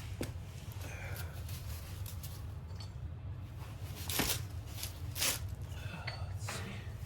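Hands at work on a workbench: a few sharp clicks and knocks of tools or parts being handled, over a steady low hum.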